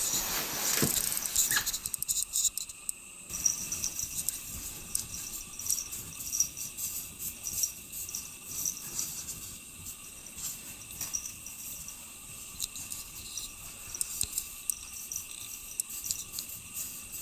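Steady high-pitched chirring of insects, with many scattered ticks and crackles over it. A brief rushing noise comes in the first two seconds.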